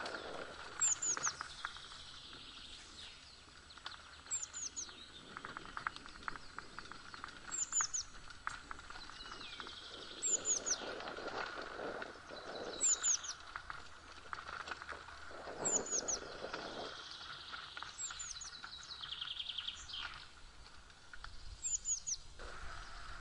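A songbird singing the same short phrase of high falling notes over and over, about every two to three seconds, over the crunch and rattle of a mountain bike rolling along a dirt forest trail.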